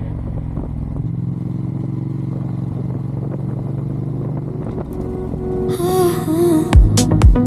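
Ducati Diavel's V-twin engine running steadily at cruising revs, its pitch stepping up slightly about a second in. Near the end a wavering synth line comes in, and then an electronic house beat with heavy, evenly spaced kick drums.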